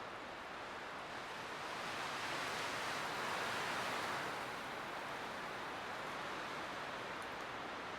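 Light wind blowing steadily as a soft hiss, swelling in a gust from about two seconds in and easing off again after about four seconds.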